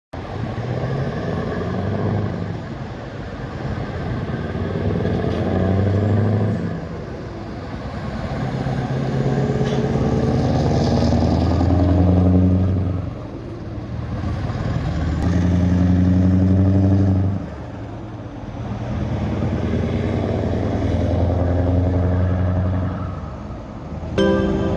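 Scania V8 diesel truck engine pulling under load, its deep note climbing and then falling back about four times.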